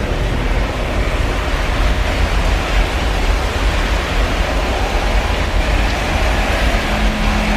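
Loud, steady roar of jet airliner engines, with wind buffeting the microphone. A low steady hum comes in near the end.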